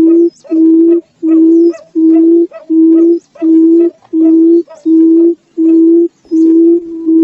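Barred buttonquail (Turnix suscitator) giving its low hooting call, the booming call of the female: a steady series of short notes on one low pitch, about three every two seconds.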